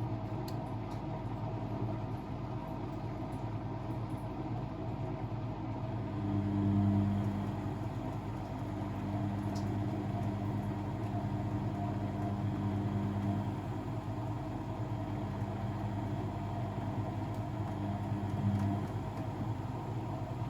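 Blomberg WAF 7442 SL washing machine running its wash cycle: a steady motor hum that swells louder three times as the drum is driven, for a second or two, for several seconds, and briefly near the end.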